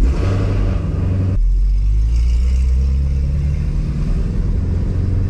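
Ford Shelby GT350's flat-plane-crank V8 firing up cold through catless midpipes. It flares loudly for about the first second and a half, then settles into a steady, deep idle. The owner thinks the exhaust is leaking a little at the middle of the car, which he takes for why it sounds loud and a bit weird.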